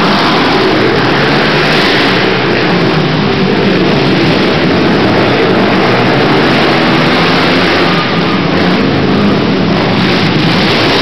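Racing quad (ATV) engines revving hard, loud and continuous.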